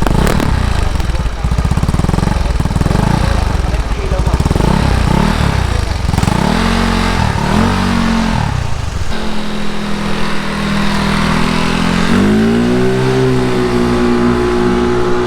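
Yamaha Mio Sporty scooter engine, bored up to 160cc, running through a JVT V2.1 aftermarket exhaust. It runs rough and uneven with a few quick throttle blips, settles to a steady lower note about nine seconds in, then rises to a held higher rev about twelve seconds in.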